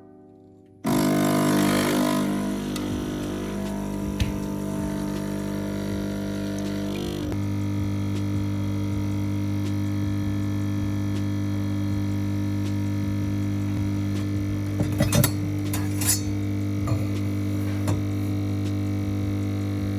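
An electric kitchen appliance running with a steady, loud hum that starts about a second in, changes slightly in tone partway through, and has a few sharp clicks near the end.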